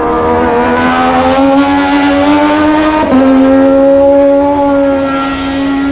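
Moto2 racing motorcycle's Triumph 765 cc three-cylinder engine at high revs, its pitch climbing steadily under acceleration, then dropping suddenly at a gearshift about three seconds in and holding before easing slightly near the end.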